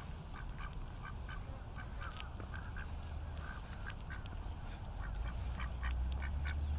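Ducks giving many short, soft quacks in an irregular chatter. A low rumble grows louder near the end.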